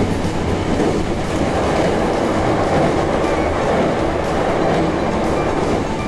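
JR Hokkaido 737 series electric train running on the rails, a steady rumble of wheels and running gear.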